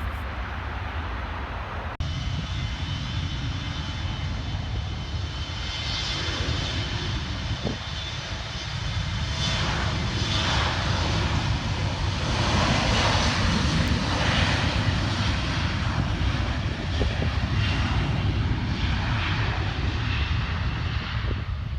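Jet airliner engines, a steady rush with a faint high whine, growing louder through the first half and holding near its loudest toward the end.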